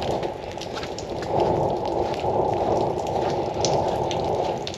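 A steady rushing noise with faint scattered ticks, getting louder about a second in.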